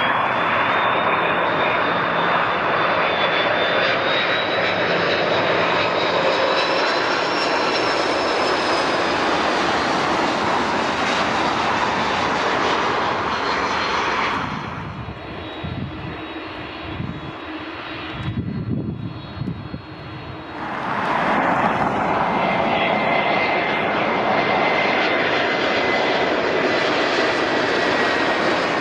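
Jet airliners arriving close overhead, their engines loud with a high fan whine that rises slightly. The noise drops to a low rumble for several seconds in the middle. Then another jet comes in loud, its whine slowly falling in pitch.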